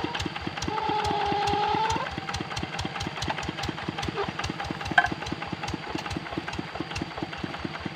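Kubota RD65 single-cylinder diesel engine on a hand tractor running steadily, chugging at about eight firing beats a second. A held high tone sounds over it for about a second near the start, and a single sharp click comes about five seconds in.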